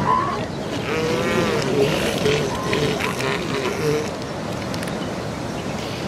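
Steady rushing noise of surf and wind on the shore, with brief broken pitched calls between about one and four seconds in.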